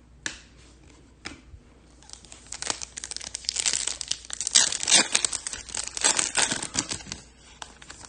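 Foil wrapper of a Topps Chrome baseball card pack being torn open and crinkled: two small clicks first, then about five seconds of dense crackling and tearing, loudest in the middle.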